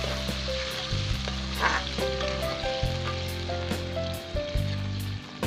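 Coconut milk sizzling and bubbling in a hot wok of sautéed onion, garlic and ginger, with a metal ladle stirring and clicking against the pan, over background music.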